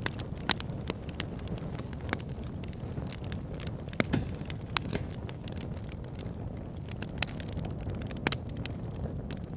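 Wood fire burning in a fireplace: a steady low rush of flames with irregular crackles and sharp pops, the loudest snaps about half a second in, near the middle and near the end.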